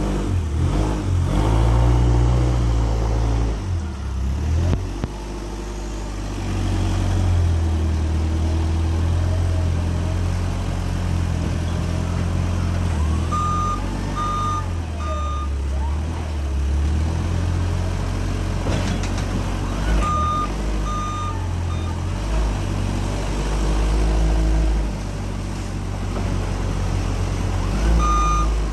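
Box truck engine running, its note shifting up and down, with a reversing alarm beeping in short spells of two or three beeps, the last spell starting near the end: the sound of a truck backing up.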